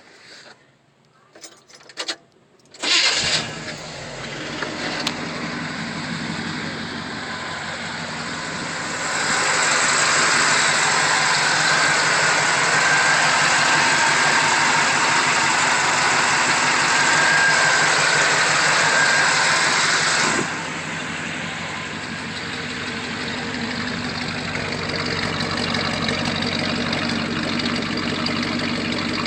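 Rebuilt 350 small-block Chevy V8 with an RV cam fires up about three seconds in after a few short clicks, then runs steadily. About nine seconds in it is held at a higher speed for some ten seconds, then drops back to a steady idle.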